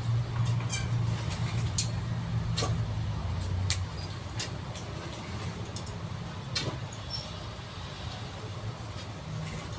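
A steady low engine hum, louder for the first four seconds and then lower, with scattered sharp clicks and knocks.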